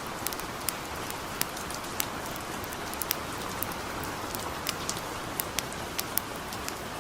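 Steady hiss of gentle rain, with irregular sharp crackles and pops from a campfire, a few a second.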